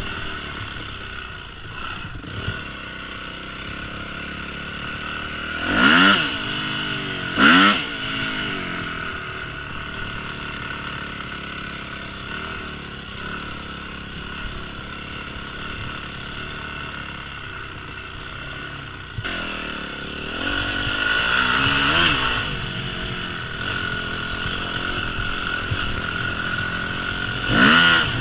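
Yamaha 250 YZF single-cylinder four-stroke dirt bike engine running under way, blipped hard twice in quick succession about six seconds in, again around twenty-two seconds and once near the end, each rev rising and falling quickly.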